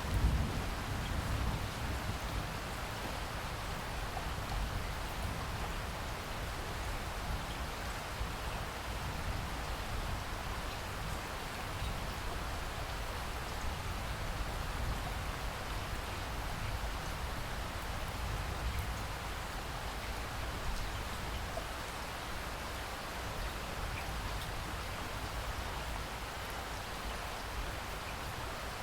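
Steady rainfall: an even hiss of drops hitting the ground, with a low rumble underneath, slightly louder just after the start.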